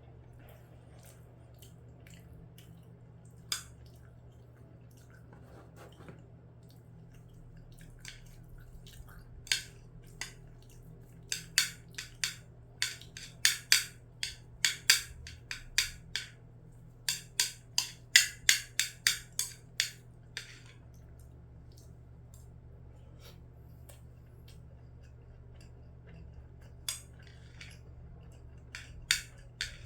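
Eating utensils clicking and scraping against a bowl during a meal of rice and scrambled eggs: a few single taps, then a dense run of sharp clicks for about ten seconds, then a few more near the end, over a steady low hum.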